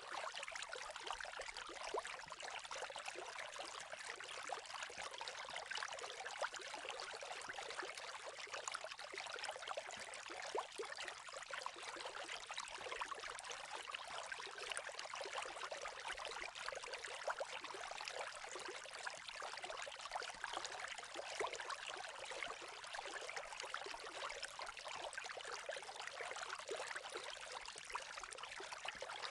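Running water trickling and splashing steadily, with no low rumble.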